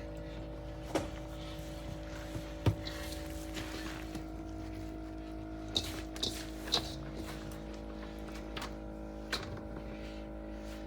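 A steady hum of several fixed pitches, with scattered light knocks and clicks from handling things in a kitchen; the sharpest knock comes a little under three seconds in.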